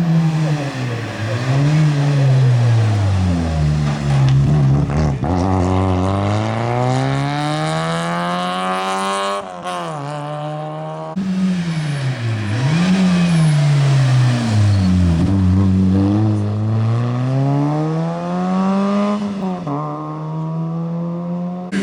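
Rally car engines revved hard through the gears, the engine note repeatedly dropping on lifts and downshifts and climbing again under acceleration. The sound breaks off abruptly about eleven seconds in and a second run of the same hard revving follows.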